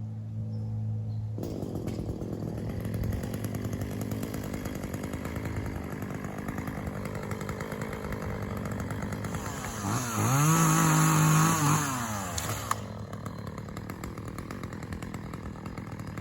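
Chainsaw engine running near idle, revved up to full speed about ten seconds in, held there for roughly two seconds, then dropping back to idle.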